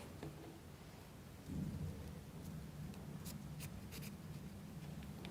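Faint handling of small wooden kit parts: a few light clicks and soft rubbing, over a low steady hum that sets in about a second and a half in.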